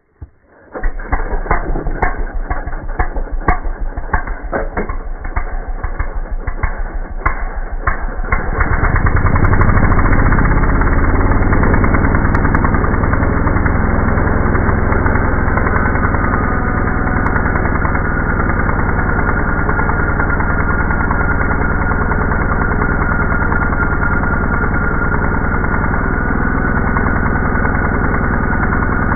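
Two-stroke engine of an ECHO EDR2400 engine drill, slowed far down: a deep rumble of separate, even firing thuds for the first eight seconds or so, then merging into a steady low drone.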